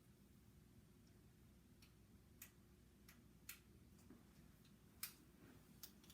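Near silence: low room tone broken by a handful of faint, sharp clicks at irregular intervals, the loudest about five seconds in.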